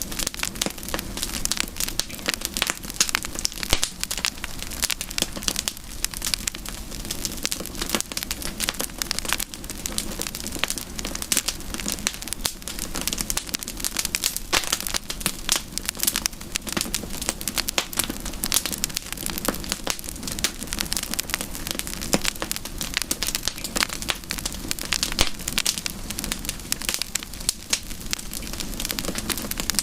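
Campfire crackling, a dense, irregular run of small pops and snaps over a steady low rush.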